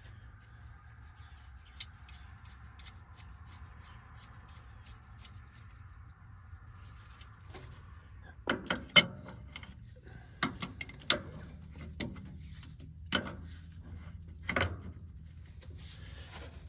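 Hand tools working the hydraulic hose fittings on an excavator boom: scraping at first, then a run of sharp knocks and clinks over the second half, over a steady low hum.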